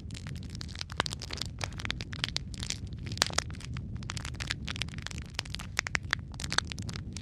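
Wood fire burning in a fireplace: dense, irregular crackles and sharp pops over a steady low rumble of the flames.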